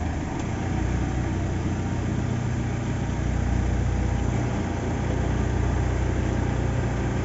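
Mitsubishi Montero's common-rail diesel engine idling steadily with the air conditioning switched on, running smoothly without a misfire now that its injector fault is cured.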